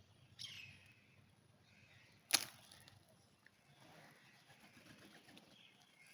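Birds at a pigeon feeding spot: a short falling chirp about half a second in, then a single sharp snap a little past two seconds in, the loudest sound, followed by faint low chatter.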